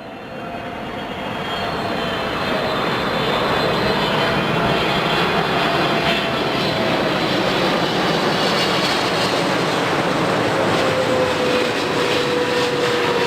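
Jet airliner engines running loud and steady as the aircraft passes close by, a high whine over a lower tone that slowly falls in pitch. The sound swells over the first couple of seconds.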